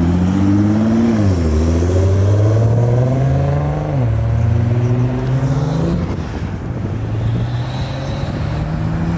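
Nissan GT-R's engine pulling away hard, rising in pitch through the gears with two quick upshifts, then settling to a steadier, quieter drone.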